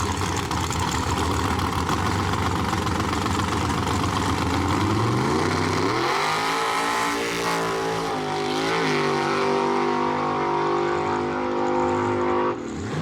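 Drag-racing car engine running rough and loud, then revving up steeply about five seconds in and holding high revs with a brief dip midway as the car accelerates. The sound cuts off abruptly near the end.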